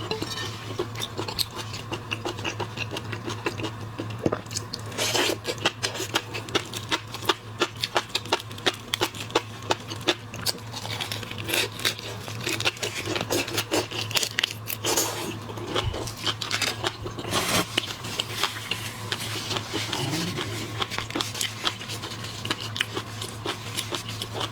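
Eating sounds from a seafood meal: shellfish shells cracking and peeling, and chewing. They form a dense, irregular run of small clicks and scrapes over a steady low hum.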